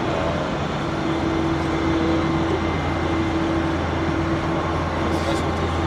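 Steady machine noise of a Boeing 787-9 being pushed back: a continuous low hum, with a steady whining tone that comes in about a second in.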